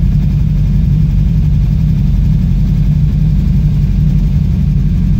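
Ford Capri race car's engine idling steadily, heard from inside the cabin.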